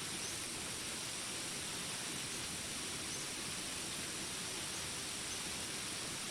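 Steady rain falling: an even hiss that holds constant, with no single drops, thunder or calls standing out.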